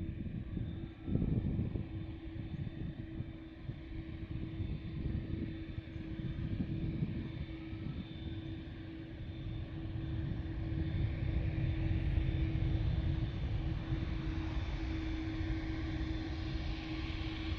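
Jet airliner engines running: a low rumble with a steady hum and a faint high whine on top, growing louder from about ten seconds in.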